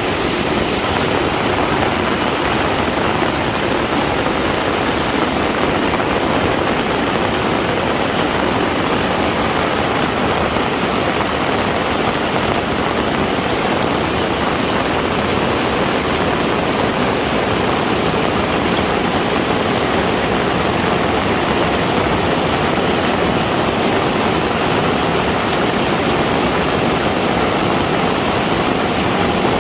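Heavy rain falling steadily, a dense even hiss of rain with no breaks.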